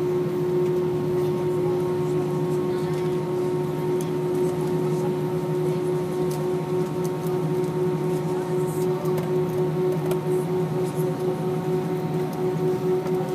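Steady cabin drone inside an Airbus A319 after landing, from its idling engines and cabin air system: a constant low hum with a clear, unwavering tone above it. Faint ticks and rustles from the cabin sound over the drone now and then.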